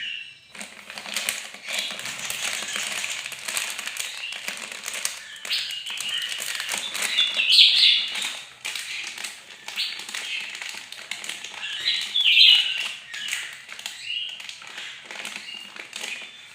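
A bird chattering and singing nonstop in fast clicking, rattling notes, with louder shrill outbursts twice, about seven and twelve seconds in.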